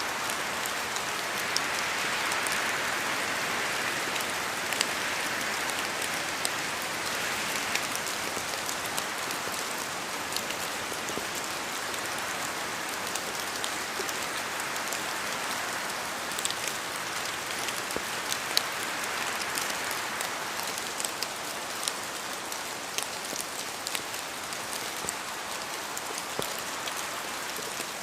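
Steady rain falling, a dense even hiss with many individual drops ticking sharply through it.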